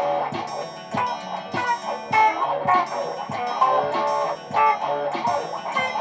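Layered electric guitar loops playing: picked notes over a repeating low bass line, with frequent short percussive hits marking a beat.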